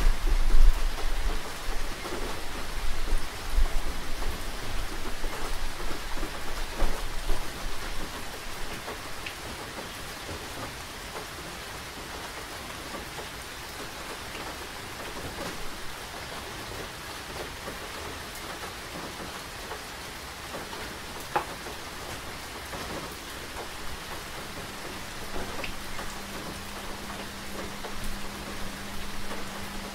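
Steady rain falling on surfaces, with a low rumble through the first several seconds. A steady low hum comes in about three quarters of the way through.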